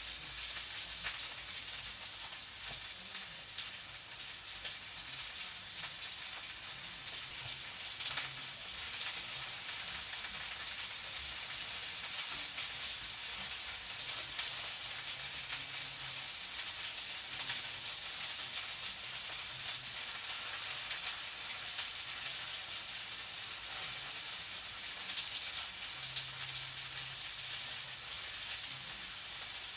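Food frying in a pan: a steady sizzle with fine crackling throughout.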